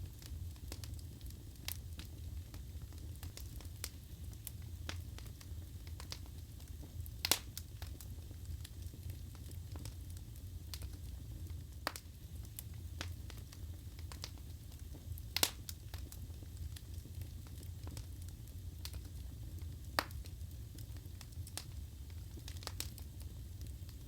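Wood fire burning in a fireplace: a steady low rumble of flames under frequent small crackles, with a few louder pops, the sharpest about seven and fifteen seconds in.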